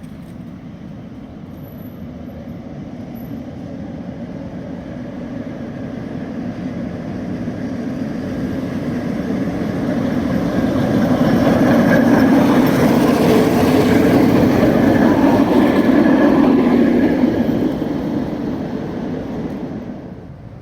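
Tram passing by: the rumble of its wheels on the rails grows steadily louder, stays at its loudest for several seconds, then drops away near the end.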